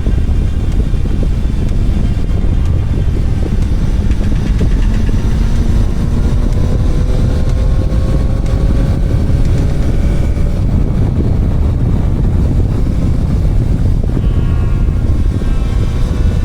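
Motorcycle under way: a steady rush of wind noise with the engine beneath it, its pitch climbing slowly for several seconds in the middle as the bike gathers speed.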